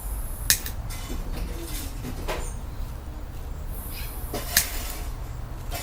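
Two sharp clicks about four seconds apart over a steady low hum.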